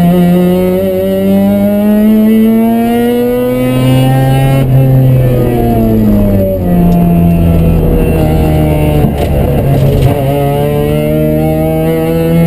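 Mazda RX-7's rotary engine heard from inside the cabin under hard track driving: it climbs steadily in pitch under acceleration, drops sharply as the driver lifts and slows for a corner, runs lower with a couple of sharp knocks, then climbs again near the end.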